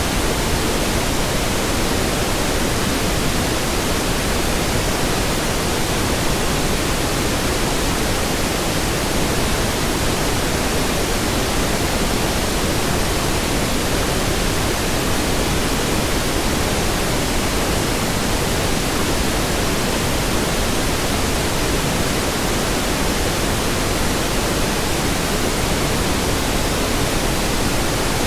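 Steady pink noise: an even, unchanging hiss spread over the whole range of pitch, fuller in the low end than white noise.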